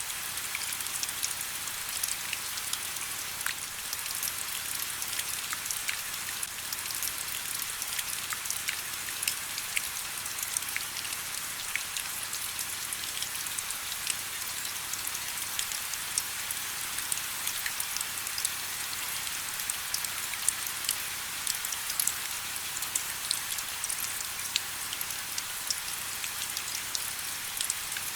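Steady rain falling: an even hiss with many small, sharp drop ticks scattered throughout.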